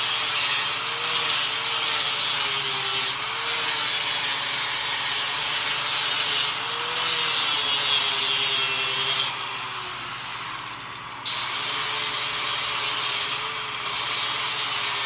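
MIG welder arc crackling and sizzling as a series of weld beads is laid, with a faint wavering hum underneath. The arc breaks off briefly several times and drops away for about two seconds around ten seconds in before it starts again.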